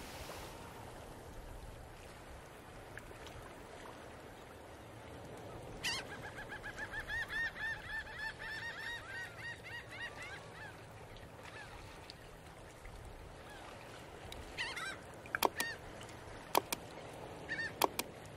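A bird calling in a fast run of repeated short calls, about four to five a second, for several seconds. A few sharp clicks come near the end.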